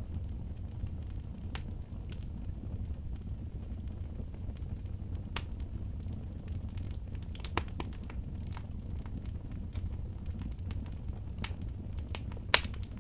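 Wood fire burning in a fireplace: scattered sharp crackles and pops over a steady low rumble, with one loud pop near the end.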